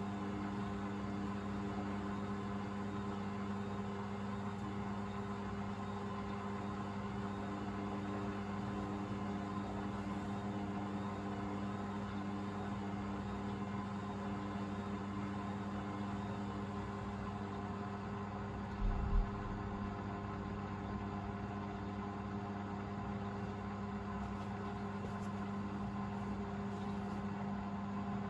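Hoover VisionDynamic washing machine draining after the wash: the drain pump runs with a steady hum. About two-thirds of the way through there is a brief low double thump.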